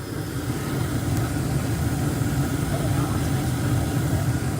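2001 Carrier gas furnace running with its burners lit: a steady low rumble that grows louder over the first second, then holds.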